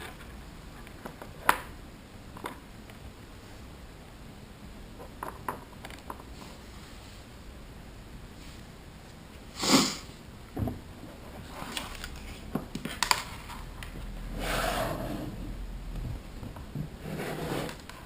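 RC servo in a distance sensor unit, held at neutral by a 1.5 ms control pulse with no stick input, still making intermittent short clicks and buzzes, the unwanted noise it gives in its "off" state. The sharpest click comes about ten seconds in, and longer rough buzzing stretches follow near the end.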